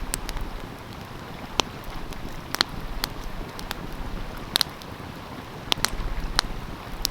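Wood fire crackling with sharp, irregular pops over the steady rush of a flowing stream.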